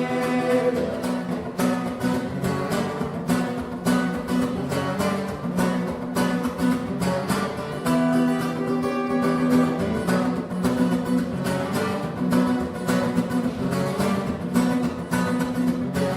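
Acoustic guitar strummed in a fast, steady rhythm, playing the song's instrumental ending without singing.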